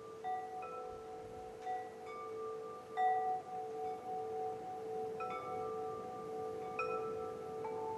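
Wind chimes ringing: bright notes struck at irregular moments, several of them in the first three seconds and again around five and seven seconds in, each ringing on and overlapping the others, over a steady lower sustained tone.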